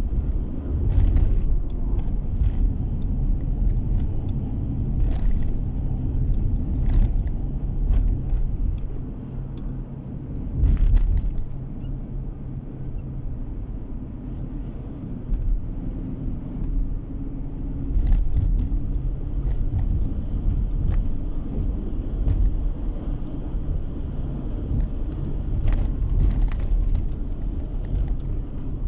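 Road noise inside a moving car: a steady low rumble of tyres and engine, with scattered short clicks and rattles throughout.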